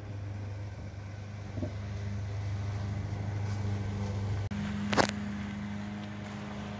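A steady low mechanical hum, like a running engine, which shifts to a higher pitch about two-thirds of the way through. A single sharp click comes just after the shift.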